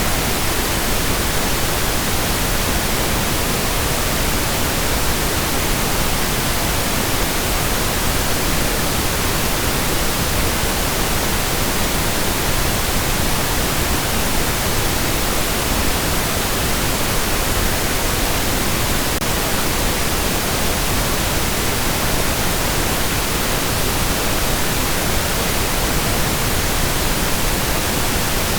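Steady synthetic pink noise: an even, unbroken hiss spread across all pitches, softer in the highs than white noise.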